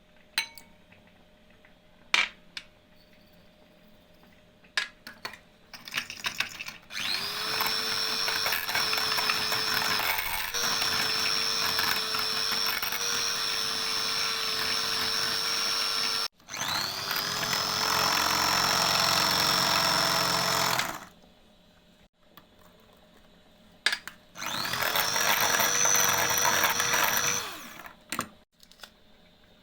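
Electric mixer running in three spells, of about nine, five and three seconds, each starting with a whine that quickly rises to a steady pitch. A few sharp clicks come before the first spell.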